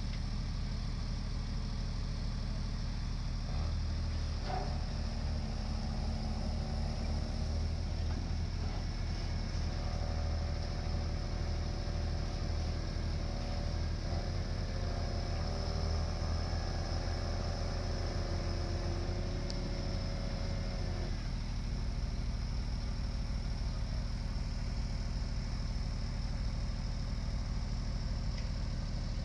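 Drilling rig engine running steadily at the bridge works. From about four seconds in until about twenty-one seconds, a second set of higher steady tones joins the engine noise, then stops abruptly.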